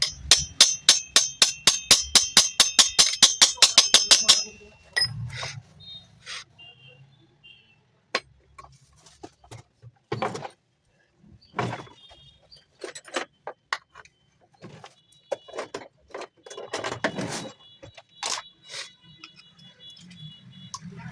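Quick, ringing metal-on-metal taps, about six or seven a second for roughly four seconds, then scattered single clicks and knocks from work on a mixer grinder jar's metal parts.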